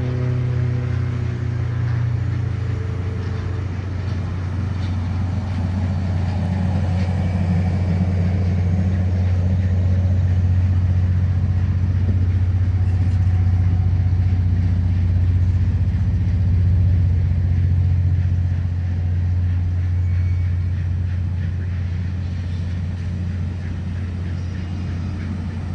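Steady low rumble of a passing train, swelling a little in the middle.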